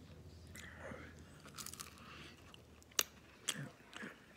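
A man chewing a mouthful of buffalo chicken Hot Pocket filling, with soft mouth noises and a few sharp clicks; the loudest comes about three seconds in.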